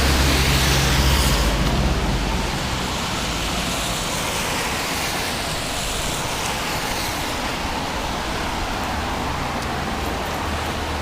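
Street traffic: a passing vehicle's low engine hum fades out over the first two seconds, leaving a steady hiss of road noise, and a low hum comes back near the end.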